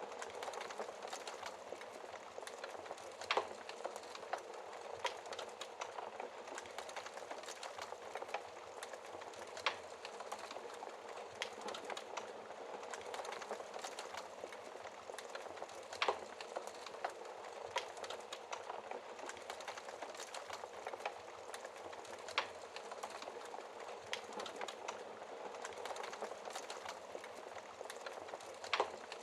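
Wood fire crackling in a fireplace: a steady soft hiss full of small crackles, with a sharper pop about every six seconds.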